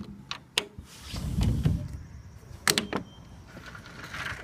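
A door being handled and slid open: a couple of clicks, then a low rolling rumble for about a second, then another pair of clicks.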